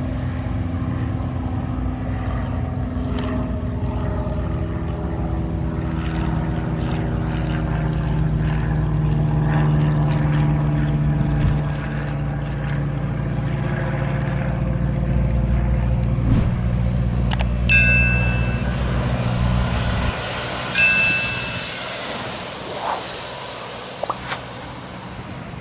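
Boeing Stearman PT-13 Kaydet's Lycoming radial engine and propeller running at high power for takeoff, a steady drone that swells in loudness. About 20 seconds in, the engine sound drops away, leaving fainter wind noise. Two short high beeps come just before and just after the drop.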